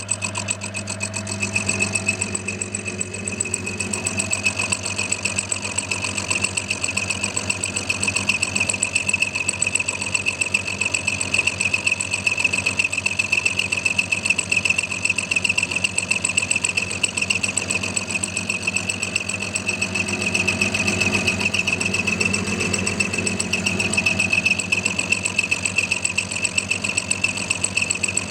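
Clarke CL430 metalworking lathe running steadily as a milling machine, driving a high-speed-steel dovetail cutter through a mild steel block to cut a female dovetail. A steady high whine sits over a low motor hum.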